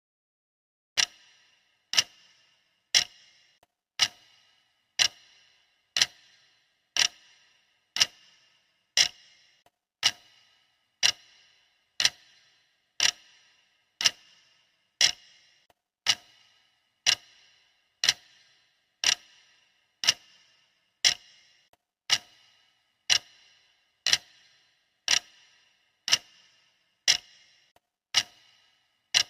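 Clock ticking steadily, once a second: each tick a sharp click with a short ring that dies away quickly. The ticks start about a second in.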